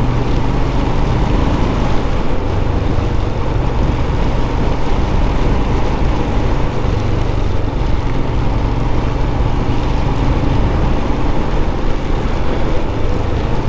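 Royal Enfield Scram 411's single-cylinder engine running at a steady cruise on the move, under a constant rush of wind and rain noise on the microphone.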